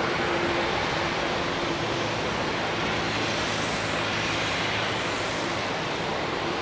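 Steady jet engine noise from an Airbus A340-300's four CFM56 engines, an even rushing sound with a faint low hum underneath.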